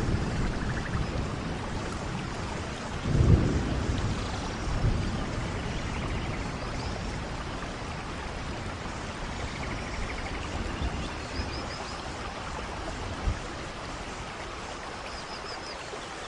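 Steady rain falling, with low rumbles of distant thunder about three seconds in and again a couple of seconds later.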